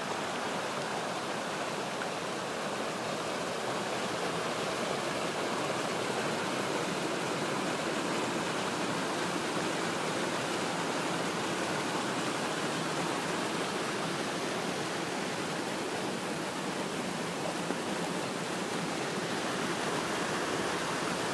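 Floodwater of a swollen stream rushing through a yard in a steady, loud torrent.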